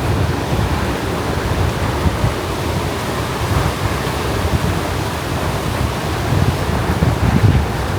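Steady rush of ocean surf, with wind buffeting the microphone in uneven low gusts that grow stronger near the end.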